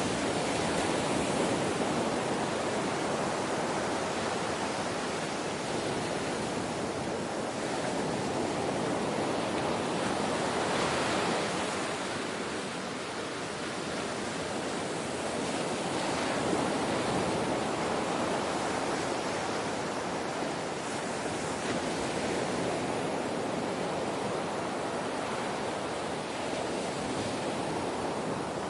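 Ocean waves washing ashore: a steady rush of surf that swells and eases slowly every few seconds.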